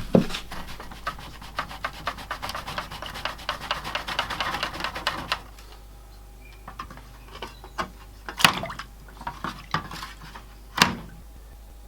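Metal being worked by hand: a run of fast, scratchy rubbing strokes with small clinks for about five seconds, then a few separate sharp knocks, the loudest about halfway through and near the end.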